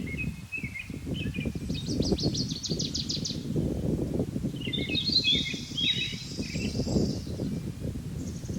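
Songbird singing outdoors: a fast trill of rapidly repeated high notes about two seconds in, then a warbling phrase around five seconds. Under it runs a constant low rumbling, crackling noise, louder than the bird.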